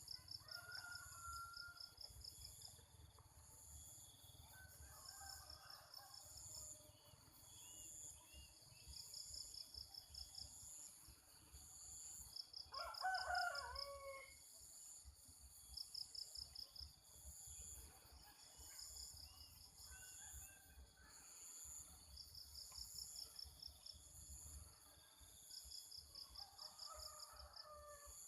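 A rooster crowing once, clearly, about halfway through, with fainter crows from farther off at other moments. Insects chirp in short repeated trills throughout.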